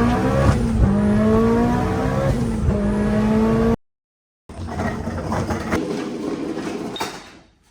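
Car engine accelerating, its pitch rising and then holding steady. It cuts off suddenly a little before halfway, and after a brief silence a rougher stretch of car noise follows and fades out near the end.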